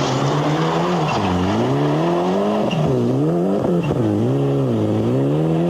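Rally car engine revving hard, its pitch dropping and climbing again several times as the throttle is lifted and reapplied.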